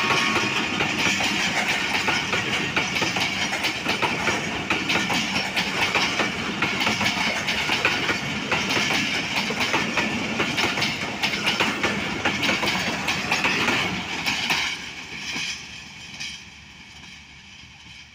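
Passenger train coaches rolling past close by, the wheels clattering over rail joints. About fourteen and a half seconds in, the last coach goes by and the sound drops off sharply to a fading rumble.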